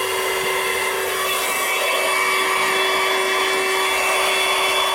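Audew 12V handheld car vacuum cleaner running steadily, a constant motor whine over the rush of air through the nozzle.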